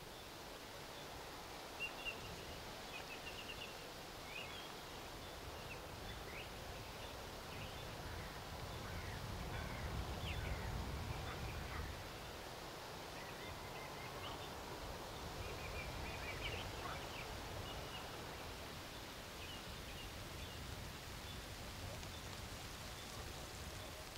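Small birds chirping and trilling now and then, over a low wind rumble that swells about ten seconds in. Two short clicks about two seconds in.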